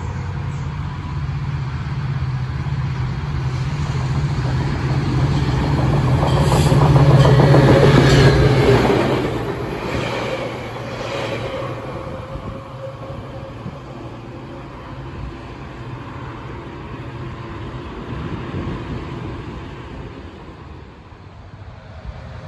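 Trinity Railway Express diesel push-pull commuter train passing at speed without stopping. The locomotive's steady engine hum builds to its loudest about seven to eight seconds in, with wheels clicking over rail joints as the cars go by. The sound then fades as the train moves away.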